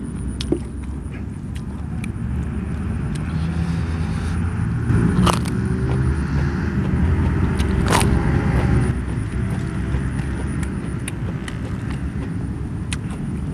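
A steady low rumble that swells in the middle, with a few sharp crunches of raw banana heart being bitten and chewed, the two clearest about five and eight seconds in.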